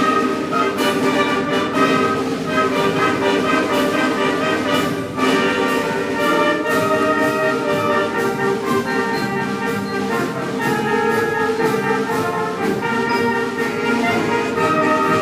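School concert band playing live: full sustained chords from the winds over a steady percussive beat.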